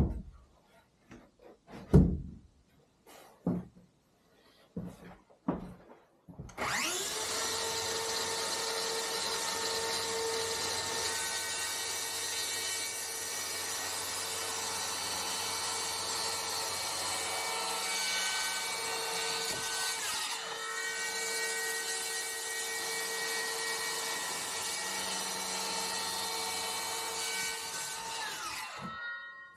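A few separate knocks, then a power tool starts and runs at a steady speed for about twenty seconds. Near the end it cuts off, winding down in pitch.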